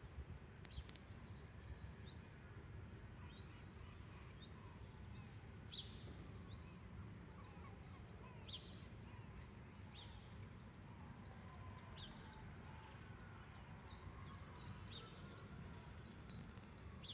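Faint outdoor ambience: a steady low background rumble with scattered short, high bird chirps, a few more of them near the end.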